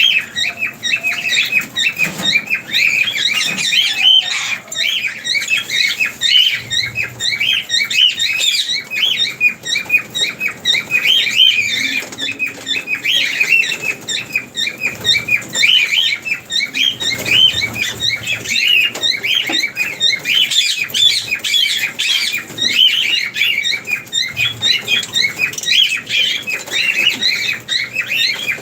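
Lovebirds chattering: a dense, unbroken stream of short, shrill chirps and squawks, several a second, with many calls overlapping.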